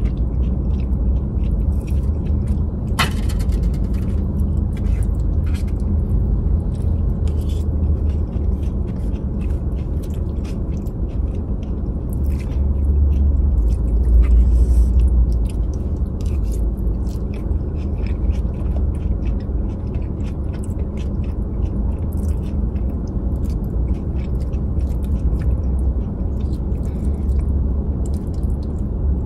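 Close-up eating of a burrito bowl: chewing, crunching lettuce, wet mouth clicks and a plastic fork scraping in the bowl, over a steady low rumble. There is one sharp click about three seconds in.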